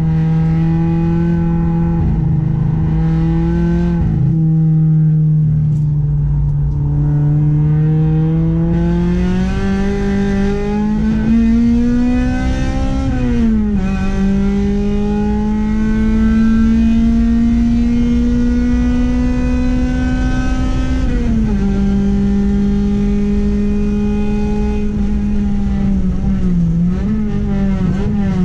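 Honda Accord's H22A 2.2-litre DOHC VTEC four-cylinder engine driven hard: it holds steady revs for several seconds, climbs in pitch, and drops sharply on upshifts about 13 and 21 seconds in. Near the end the revs dip and rise briefly as the throttle eases.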